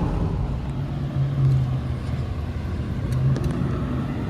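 Ford Mustang GT's 4.6-litre two-valve V8 running under way at cruising speed, a steady low exhaust drone that swells briefly about a second in and again near three seconds in.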